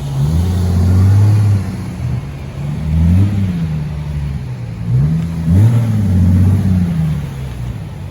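Car engine being revved in place three times, each rev climbing in pitch and falling back to idle; the third rev is held longest.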